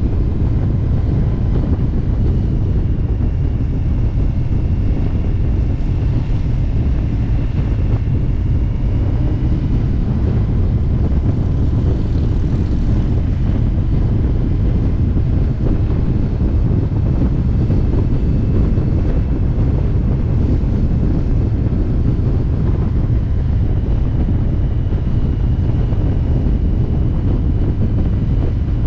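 Indian motorcycle running steadily at cruising speed, a constant low engine rumble mixed with wind rush over the microphone.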